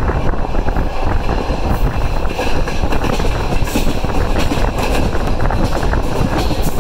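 A moving train heard from a carriage window: the steady rumble of wheels on the rails, with constant rattling.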